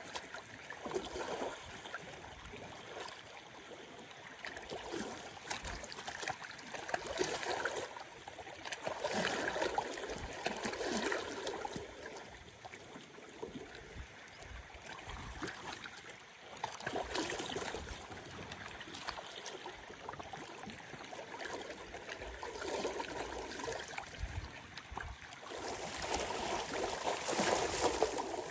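Small waves lapping at a lake shore, driven by a strong wind, the splashing swelling and easing every few seconds.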